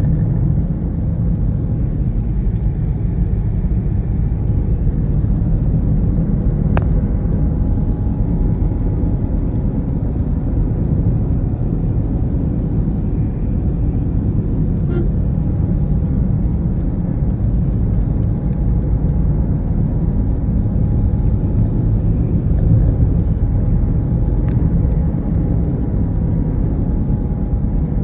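Steady low rumble of a moving vehicle: engine and road noise while driving, with a couple of faint clicks.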